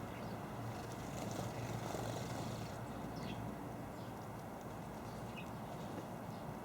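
Small garden birds giving a few faint, short chirps over a steady low background rumble.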